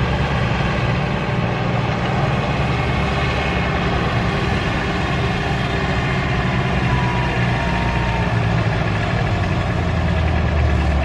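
Tractor engine running steadily at low speed, with a brief faint high tone about seven seconds in.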